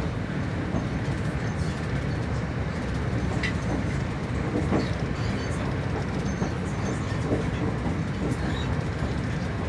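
A TER regional train running along the track, heard from inside the carriage as a steady rumble with a few faint clicks from the wheels on the rails.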